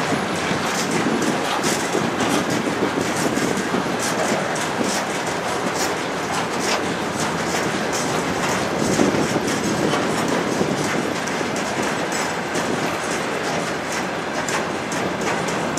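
Freight train of railway tank wagons rolling past, steel wheels clacking continuously over the rail joints.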